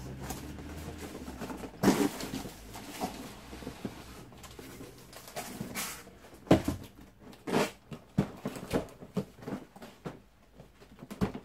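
Cardboard box and packaging being opened and handled: scattered knocks, scrapes and rustles, the sharpest about two seconds in and again after six seconds.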